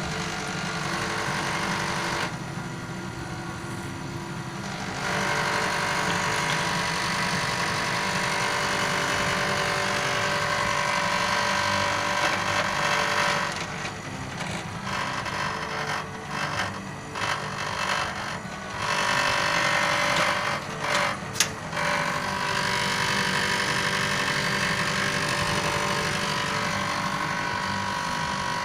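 A noisy air conditioner unit running with a steady mechanical hum. The hum drops away briefly several times in the middle, and there is a single sharp click about twenty-one seconds in.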